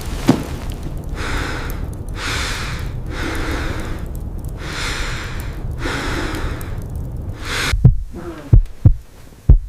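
A person breathing heavily in and out, about six slow, rhythmic breaths. Near the end a heartbeat sound effect of deep, paired thumps begins.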